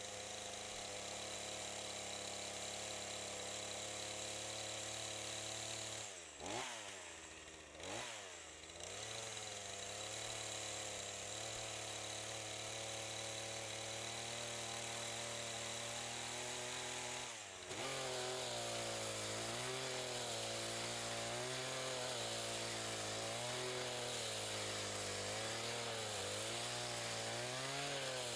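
Two-stroke chainsaw running at high revs, its engine note dipping and recovering twice about six and eight seconds in. From about seventeen seconds the note sits a little higher and wavers up and down every second or so, as under changing load in wood.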